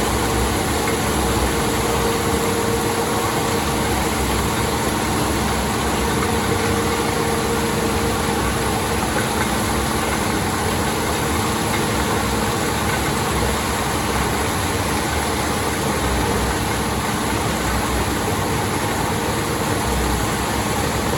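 Railway ballast regulator's diesel engine running steadily, with a constant hum over a wide mechanical noise.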